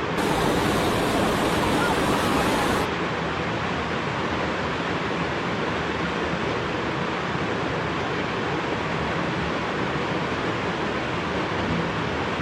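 Rushing floodwater, a steady, even noise. About three seconds in it drops abruptly from a louder, brighter rush to a slightly duller one.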